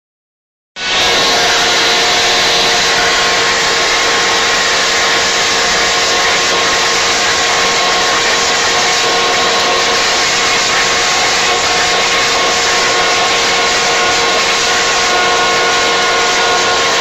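Corded electric leaf blower running steadily, a loud rush of air with a steady motor whine. It comes in abruptly after a moment of silence about a second in.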